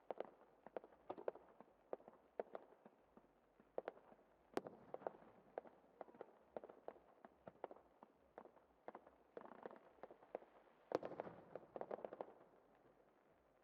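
Fireworks display: many sharp bangs and crackles at irregular intervals, with a thicker, louder cluster late on, dying away just before the end.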